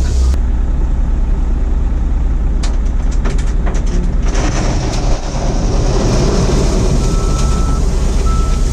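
Mitsubishi Fuso dump truck's diesel engine running with a steady low drone, with a cluster of rattles and clicks a few seconds in. Two short high tones sound near the end.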